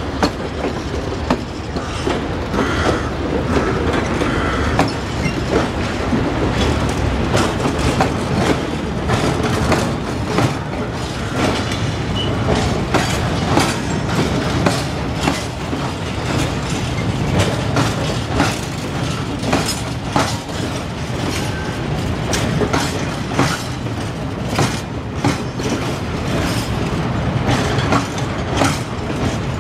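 Freight train of flat wagons rolling past, a steady low rumble of steel wheels on rail broken by frequent irregular clicks and clatter as the wheels cross the track joints.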